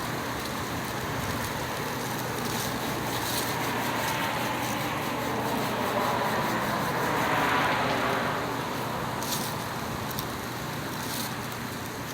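Steady background traffic noise, with one vehicle passing that swells and fades about six to eight seconds in. A few faint clicks come near the end.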